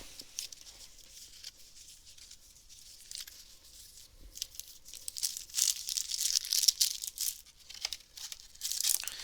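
A trading-card booster pack wrapper being torn open and crinkled: a few faint ticks at first, then about halfway through a crisp, busy crackling.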